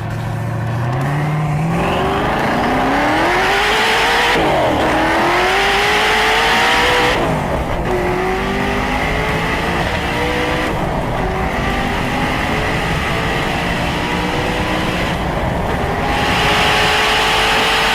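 High-performance car engine under full acceleration, its note climbing steadily and dropping at each upshift: two quick shifts in the first seven seconds, then longer, slower climbs in the higher gears.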